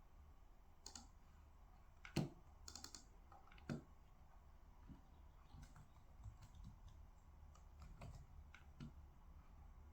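Sparse, irregular keystrokes and clicks of a computer keyboard at a quiet desk, with a couple of louder taps and one quick run of keys in the first half, over a faint low hum.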